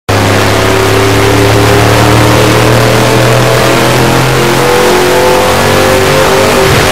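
Race truck's engine running hard at high revs, heard through the onboard camera: loud and steady, with its pitch shifting slightly about five seconds in.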